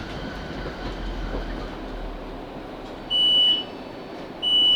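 Interior running noise of a Class 458 electric train coming into a station, with a low rumble early on. Then two high-pitched beeps about a second and a half apart, the door-release warning tone as the train stands at the platform.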